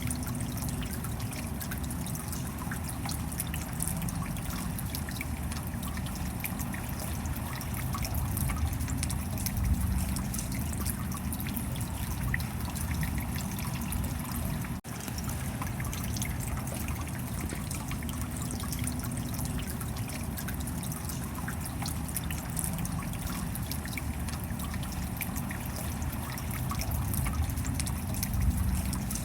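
Steady rain with many small drops ticking and water trickling and dribbling, over a low rumble. The sound drops out for a split second about halfway.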